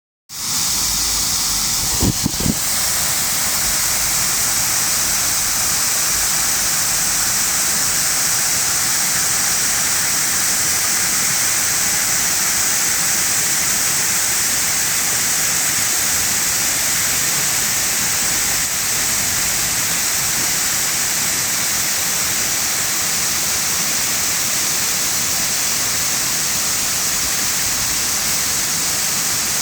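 Waterfall: a steady rush of falling water, with a couple of brief low thumps about two seconds in.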